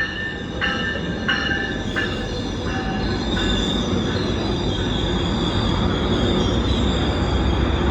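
Railroad grade-crossing bell ringing, about one and a half strokes a second, fading under a train's rising noise after about three seconds. The train grows steadily louder as it approaches, with a deep rumble and a thin, high steady whine from about three seconds on.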